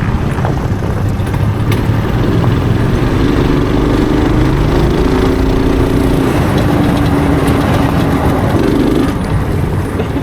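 Small vehicle's engine running while it is driven over bumpy ground, with a steady rumble underneath. An engine note stands out from about two to nine seconds in, shifting a little in pitch.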